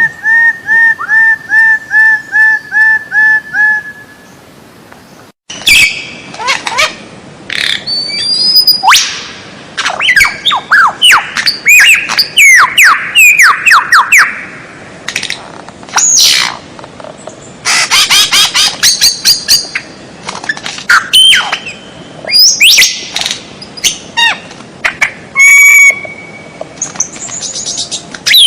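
Recorded songbird calls of the kind played as masteran to tutor cage birds. First comes a run of identical short notes, about two or three a second. After an abrupt cut come varied whistles, sweeping slurs and fast chattering trills.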